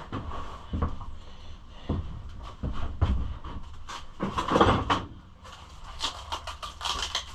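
Irregular knocks, clicks and clatter of hard plastic body panels being handled and fitted onto a pit bike, with a louder, longer scraping stretch about four and a half seconds in.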